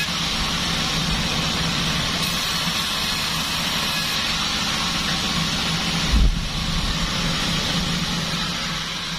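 Band sawmill machine running steadily, with one low thump about six seconds in.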